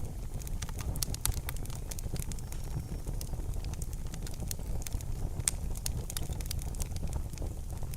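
Fire burning in a fireplace: frequent irregular crackles and pops over a steady low rumble of the flames.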